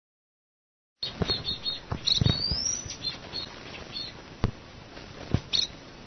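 Small pet bird chick chirping in short high peeps, with one longer rising whistle about two seconds in, over thumps and rustles from it being handled; the sound starts about a second in.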